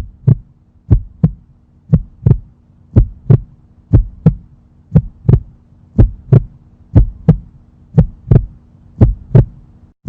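Heartbeat sound effect: paired lub-dub thumps about once a second over a steady low hum.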